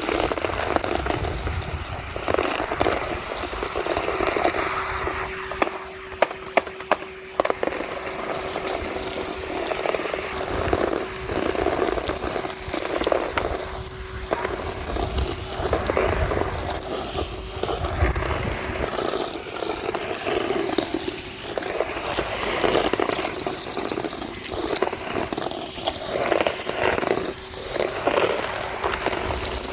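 Henry HVR 200-22 canister vacuum cleaner running with a steady motor hum while sucking up grit and debris from street pavement, the suction noise surging and crackling unevenly, with a quick run of sharp clicks of debris rattling up the hose several seconds in.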